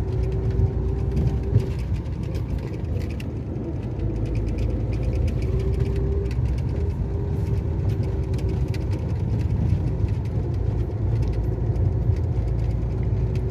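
Car interior noise while driving slowly over a rough dirt track: a steady low rumble of engine and tyres, with many small rattles and knocks from the bumpy road and a faint hum that comes and goes.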